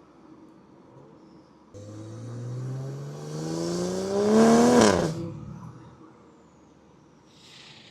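BMW X5 40i's turbocharged inline-six with a catless downpipe and tune accelerating hard: the engine note rises steadily for about three seconds, getting louder, then drops sharply.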